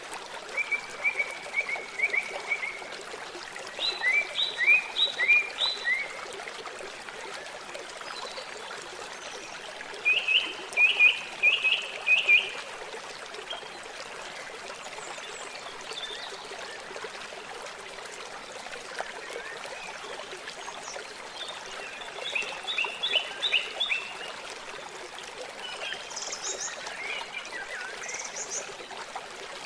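Steady rush of flowing water, with a bird calling every few seconds in short series of quick, high notes.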